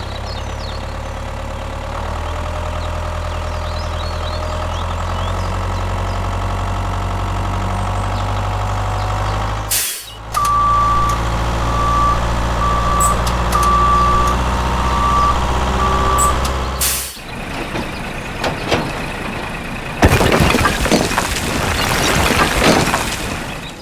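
Heavy truck engine running steadily, with a reversing alarm beeping about once a second for several seconds in the middle. Near the end a loud rushing, rattling noise takes over.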